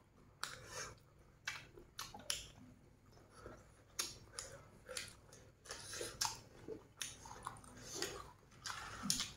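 Close-miked chewing of roast duck by two people eating: irregular short wet clicks of mouth and lips, about two a second.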